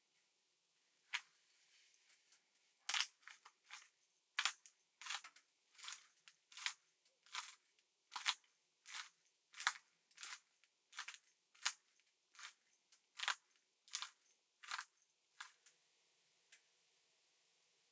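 Footsteps crunching in dry, frozen snow at a steady walking pace, about three steps every two seconds, stopping about fifteen seconds in.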